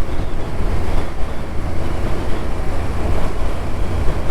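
Steady wind rush and low rumble of a motorcycle being ridden at road speed, with wind buffeting the rider's microphone.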